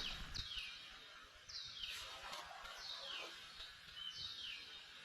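A bird calling: a run of quick high notes that each slide downward, about two to three a second, giving way after about a second to a few longer falling notes spaced farther apart.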